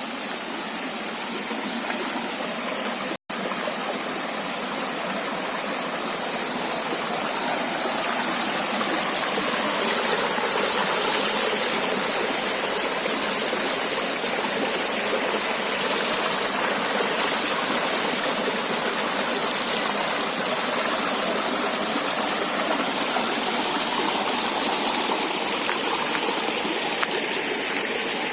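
Steady rush of a small rocky river flowing close by, an even, unbroken water noise. A thin, steady high-pitched whine runs alongside it. The sound cuts out for an instant about three seconds in.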